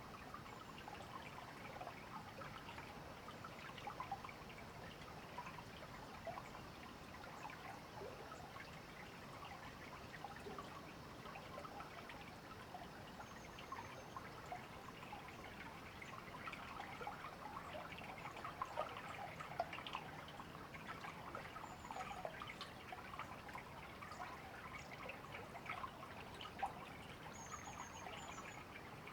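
A river running steadily, with a few short, high bird chirps around the middle and near the end.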